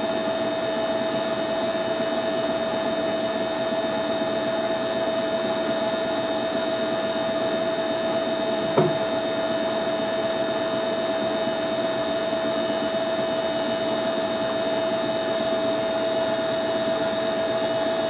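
Hoover A3060 Electronic 1100 washing machine spinning smoothly, its motor giving a steady whine over the drum's rushing noise. A single short knock comes about nine seconds in.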